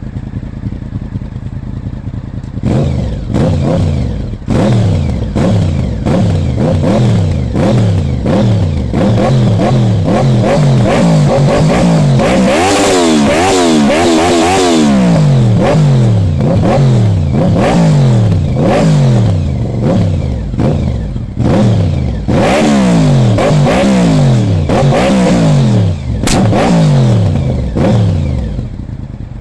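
Honda VFR's V4 engine idling briefly, then revved again and again with quick throttle blips, the pitch climbing and falling back under a second apart. The highest revs come in a run of blips around the middle.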